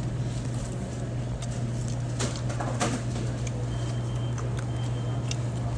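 Biting into a crunchy breaded chicken nugget, with a couple of sharp crunches about two and three seconds in, over a steady low hum.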